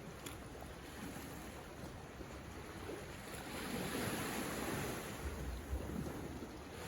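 Ocean waves washing onto the shore, a steady rush of surf that swells louder about halfway through as a wave comes in.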